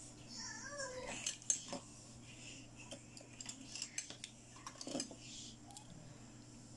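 Small plastic toy pieces being handled, a string of light clicks and clacks that is busiest in the middle of the stretch.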